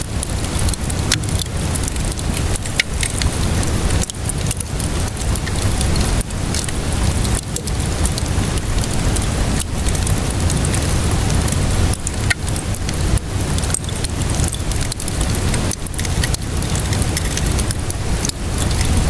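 Wood fire crackling with frequent irregular sharp pops over steady rainfall and a low, constant rumble.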